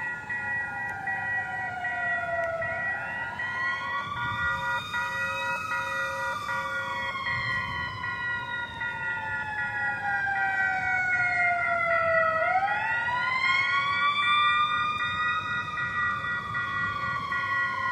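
Emergency vehicle siren sounding a slow wail. Its pitch rises about three seconds in, falls slowly, then rises again shortly after the middle. Steady high tones that break off at regular short intervals run underneath.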